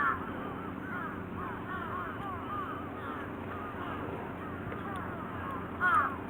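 A flock of birds calling continuously: many short rise-and-fall calls overlapping, with a faint low steady hum beneath.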